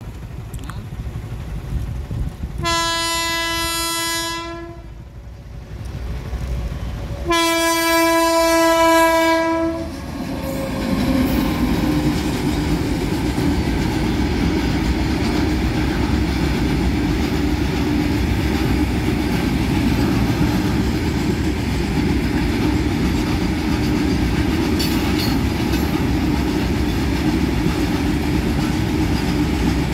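Indian Railways locomotive horn sounding two long blasts of one steady pitch, each about two seconds, then the steady rumble and clatter of the train running on the track.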